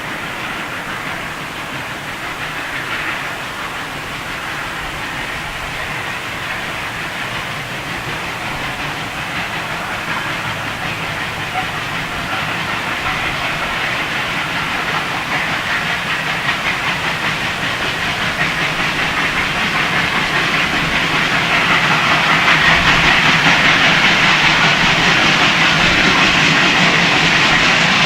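Steam train running, with wheels clicking over the rail joints and steam hissing, growing steadily louder.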